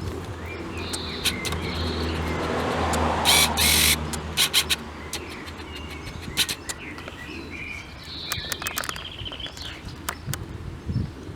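Birds chirping, with short high calls about a second in and again near the end. Under them a low engine hum runs steadily and fades away about halfway through, and scattered clicks sound throughout.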